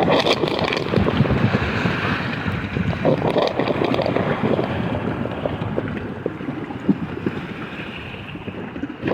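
Water rushing and splashing around a raft as it rides down a water-park raft slide, with wind buffeting the microphone. It gets quieter over the last few seconds.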